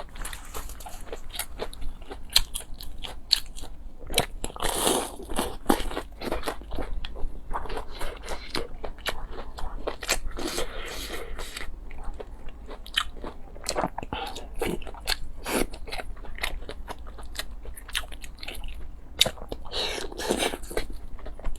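Close-miked eating sounds: repeated crunchy bites and chewing, a quick run of sharp clicks broken by a few longer noisy stretches.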